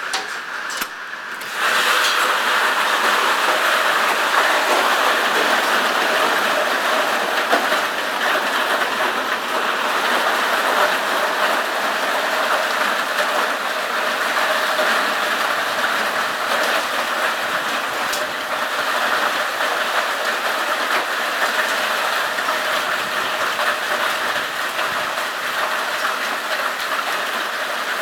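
Heavy hail and rain pounding down in a dense, steady clatter. It jumps louder about a second and a half in and holds there.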